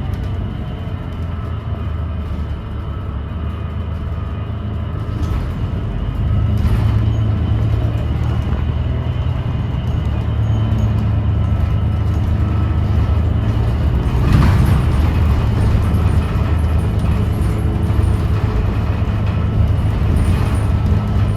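Inside a 2017 New Flyer XDE40 diesel-electric hybrid bus under way: a steady low drone with faint steady whining tones above it, getting louder about six seconds in, and one brief knock about two-thirds of the way through. It carries an odd noise that the rider puts down to the transmission or a loose screw or panel rather than the engine.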